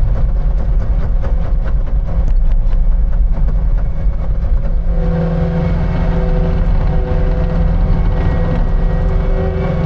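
Heavy construction machine's engine running steadily with a deep rumble; about halfway through, its note rises into a clearer, steadier hum as it works harder.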